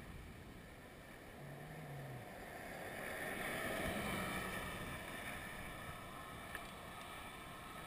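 Wind rushing over the microphone while riding an electric bike, swelling about three seconds in, with a faint steady whine above it.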